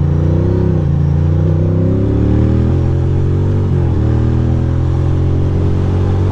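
2006 Ducati Monster 620's air-cooled L-twin engine accelerating hard. Its pitch climbs, then drops sharply about a second in, again near three and four seconds in as it shifts up through the gears, and then it runs at a steady pitch.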